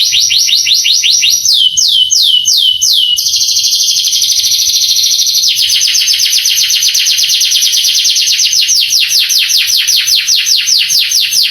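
Male canary singing continuously in rapid trills of repeated downward-sweeping notes. A few slower, wider swoops come about two seconds in, then a dense fast trill, then a long rapid rolling trill to the end.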